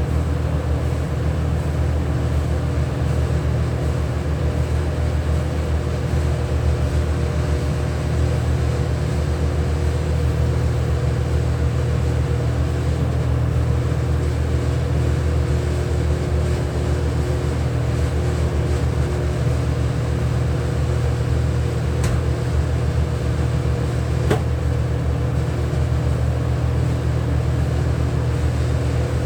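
A steady motor hum from machinery running at constant speed, with two faint clicks near the end.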